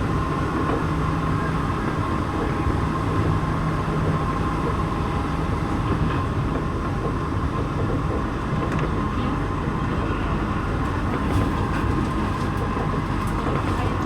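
Santiago Metro NS-16 train running between stations, heard inside the car: a steady rumble with a constant hum, and a few light clicks in the second half.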